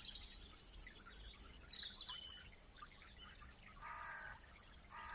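Faint songbird song: high twittering phrases that step down in pitch over the first couple of seconds, then two short, lower calls near the end.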